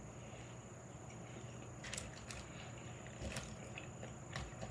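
Faint chewing of a mouthful of sandwich, with a few small wet mouth clicks over a low steady room hum.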